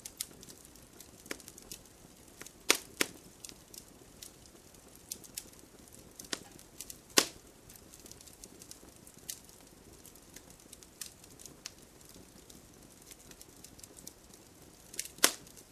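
Wood fire crackling, with irregular sharp pops over a faint hiss; several louder snaps stand out, the loudest about seven seconds in.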